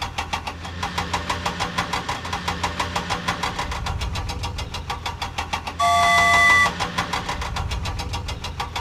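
Cartoon vehicle engine sound effect: a rapid, even chugging of about ten beats a second over a low hum. About six seconds in, a steady beep lasting under a second is the loudest sound.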